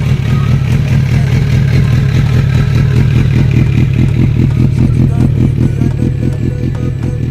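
Suzuki GSX-R sportbike's inline-four engine running steadily through a custom exhaust, with an even pulsing of about six beats a second.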